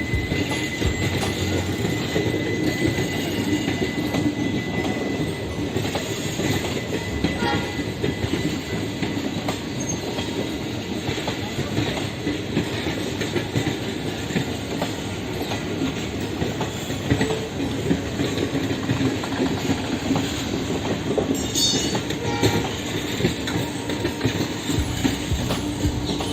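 Passenger train rolling slowly over the rails, a steady rumble with wheels clattering over the rail joints. A thin high wheel squeal fades out in the first few seconds.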